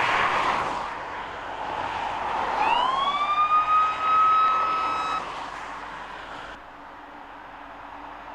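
Passing traffic rushing by, then an emergency vehicle's siren about two and a half seconds in: it sweeps up in pitch, holds one steady tone for about two seconds and cuts off.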